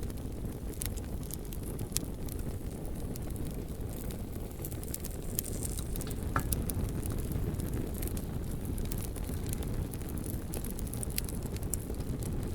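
Bonfire burning, with scattered sharp crackles and pops of the wood over a steady low rumble. A slightly stronger pop comes about six seconds in.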